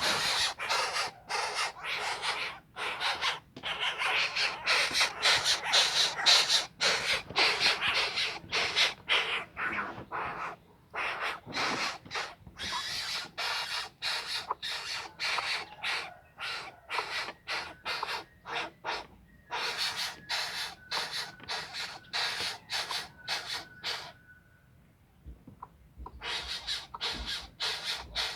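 A bird making rapid raspy hissing, breath-like rasps about three a second in long runs broken by short pauses.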